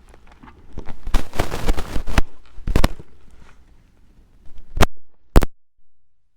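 Handling noise close to the GoPro's microphone: a run of sharp knocks and clicks, the two loudest single knocks about five seconds in, followed by a moment of quiet near the end.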